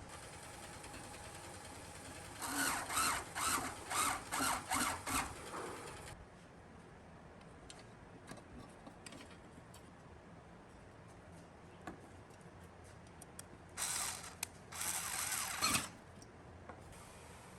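Short mechanical bursts of hand-tool or power-tool work: about two a second for three seconds, then two longer bursts near the end.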